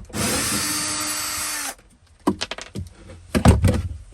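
Power drill running for under two seconds, its pitch sagging as it stops, followed by a series of knocks and clatters.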